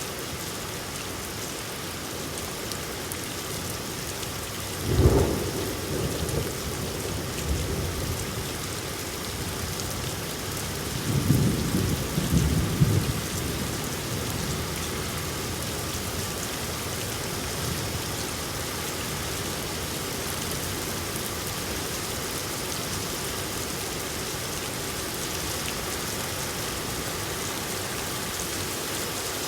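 Steady rain falling, with a sharp thunderclap about five seconds in that rumbles off, and a second longer roll of thunder a few seconds later.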